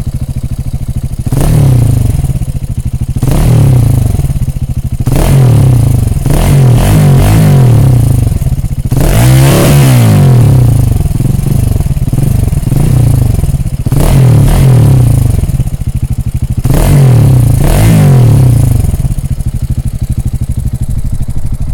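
KTM 690 Enduro R's single-cylinder engine breathing through a Remus aftermarket exhaust. It idles, is revved up and let fall back about eight times in a row, and settles to idle near the end.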